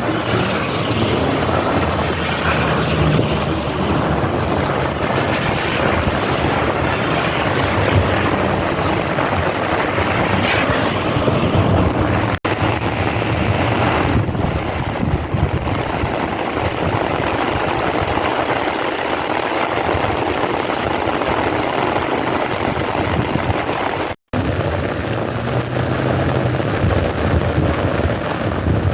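Heavy rain pouring steadily in a monsoon thunderstorm, with wind buffeting the microphone. The sound drops out for an instant twice, about twelve seconds in and again near the end.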